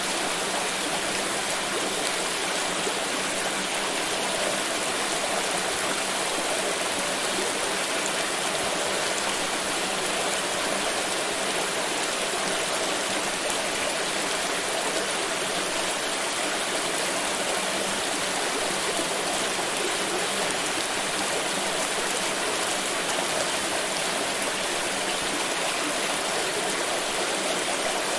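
Water pouring and splashing in a steady, unbroken flow.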